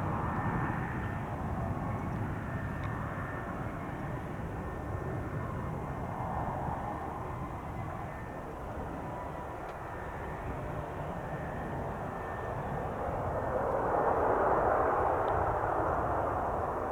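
Cessna Citation XL business jet's twin turbofan engines running steadily during its landing on the runway, a jet rush with a faint whine. It grows louder about 13 seconds in.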